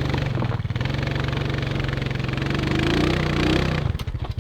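Plow vehicle's engine running under load while stuck in deep snow. It revs up about three seconds in, then drops back near the end.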